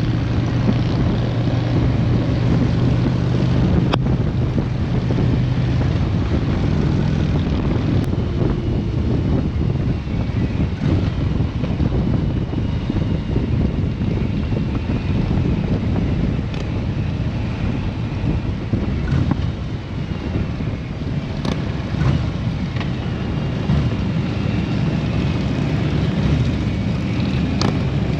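Motorcycle engine running at road speed under heavy wind noise on the microphone; a steady engine hum is clear for the first few seconds, then blends into a continuous rumble of wind and road noise.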